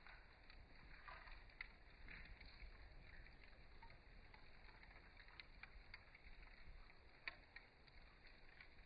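Campfire burning wood, crackling faintly with scattered sharp pops, the clearest about seven seconds in, over a low steady rumble.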